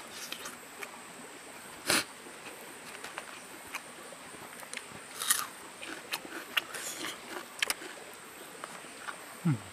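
Close-up eating sounds of a man chewing a meal of chicken gizzard, pork and rice: irregular sharp crunches and wet mouth clicks, the loudest bite about two seconds in. A brief low hum from his throat near the end.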